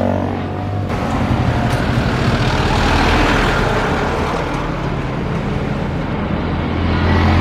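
Engine and traffic noise: a broad rushing sound that swells to a peak about three seconds in and then eases, over a steady low hum.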